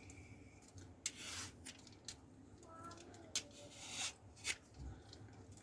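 Soft sounds of papaya being eaten and handled: scattered small clicks and short scrapes.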